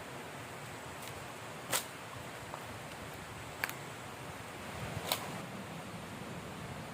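Steady rushing of a forest river and strong wind, broken by three sharp cracks, the first and loudest about two seconds in and the others roughly every one and a half seconds after.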